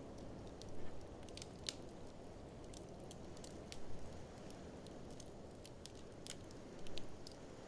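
Wood fire crackling in an open fireplace, with scattered sharp pops and three louder bursts of crackle about one, four and seven seconds in, over a steady low rumble of blizzard wind.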